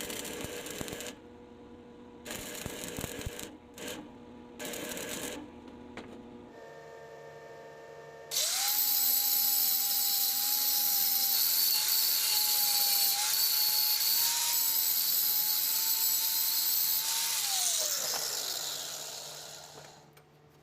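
Electric power tool: a few short bursts, then a steady high whine for about nine seconds that falls in pitch and fades as the motor is switched off and spins down.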